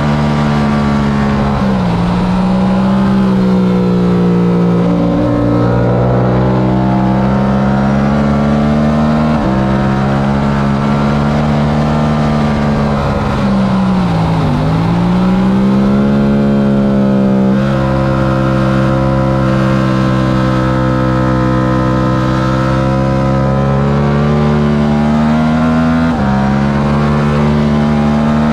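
Yamaha R7's 689 cc parallel-twin engine at racing speed, its pitch stepping between gears, with a deep dip and climb once near the middle.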